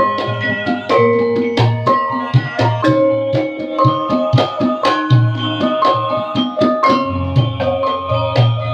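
Javanese gamelan music in rehearsal: struck metal keys ring out over a steady run of low drum strokes, with many notes in quick succession.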